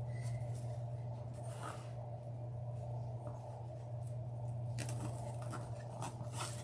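Ribbon rustling and crinkling as it is handled and arranged on a wreath. There is a short burst about a second and a half in, and more crackly handling from about five seconds in, over a steady low electrical hum.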